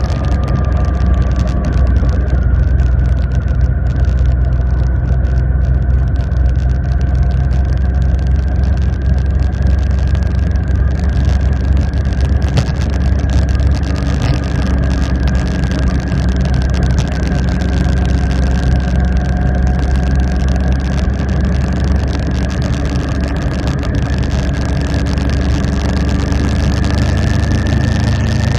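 Motorcycle engine running steadily while riding, its pitch drifting slowly up and down with no sharp revs or stops.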